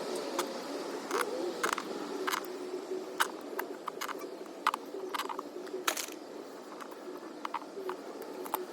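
Irregular clicks and knocks of hand tools against a mini bike wheel rim while a new tire is being mounted, over a steady background hum.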